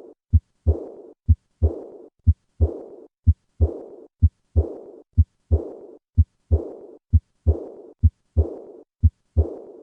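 Heart sounds through a stethoscope at about one beat a second: a first and second heart sound in each beat. Right after the second sound comes a high-pitched, blowing diastolic murmur that fades away. This decrescendo murmur is typical of aortic regurgitation.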